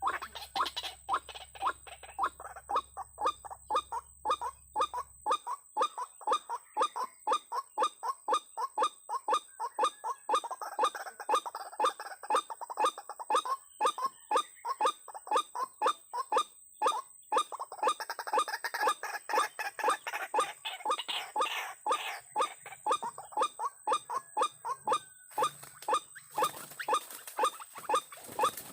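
White-breasted waterhen (ruak-ruak) calling, a monotonous run of short, evenly spaced notes, about two a second, kept up without a break.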